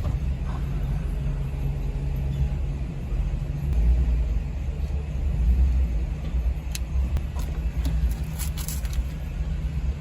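Steady low rumble of the Cadillac XTS running at idle, with a few light clicks about seven to nine seconds in.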